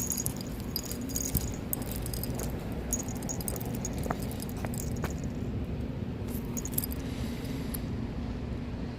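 Steady low drone of a car in motion, heard from inside the cabin, with light metallic jingling scattered through the first five seconds or so.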